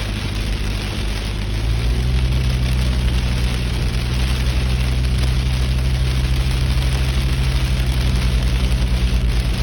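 Vehicle engine running steadily with a low hum under a dense hiss, getting louder about two seconds in.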